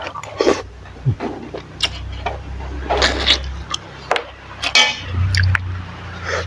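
Utensils clinking against dishes over noodle soup, with liquid sounds: a string of sharp, separate clinks.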